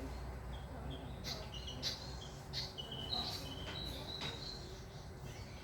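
A small bird chirping: a series of short high notes, some slightly sliding or held briefly, with a few faint sharp ticks among them, over a low steady background rumble.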